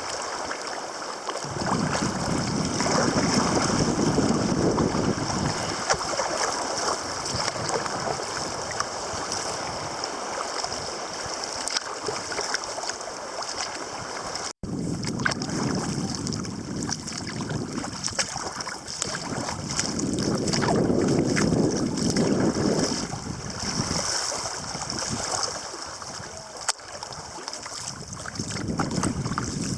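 Water washing and splashing around a sea kayak as it is paddled in gentle sea conditions, swelling and easing every few seconds. The sound cuts out for an instant about halfway.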